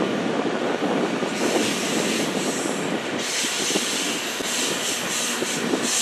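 A lash-up of CN diesel locomotives hauling a freight train past at close range, the engines running under power with a steady rumble of wheels on rail. A high-pitched hiss or squeal from the wheels and rails comes in about a second and a half in and grows louder about three seconds in, as the locomotives and the first autorack cars draw close.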